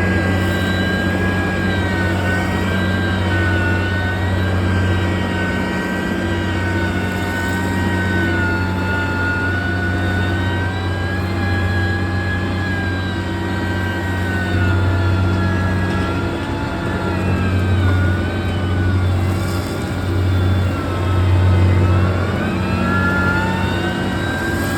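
Heavy road-construction machine's engine running: a steady low drone with a high whine that slowly rises and falls in pitch.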